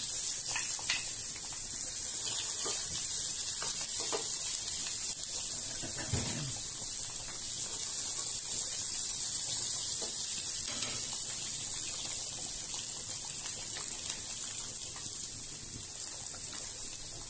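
Sliced onions sizzling steadily in hot oil in a small saucepan as they are sautéed, with a few light taps and scrapes of the utensil stirring them.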